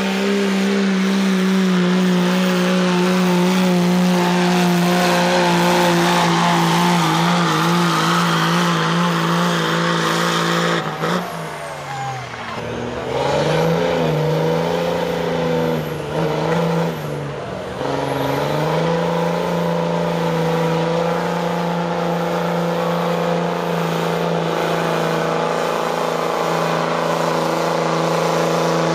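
Diesel pickup truck pulling a weight sled, its engine held at high, steady revs under full load. Twice in the middle the revs sag and then climb back up.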